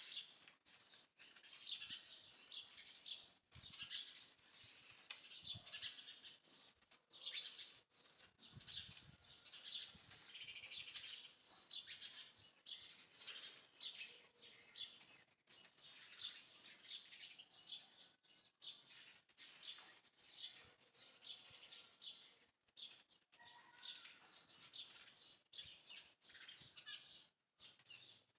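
Birds chirping: a steady stream of short, high chirps.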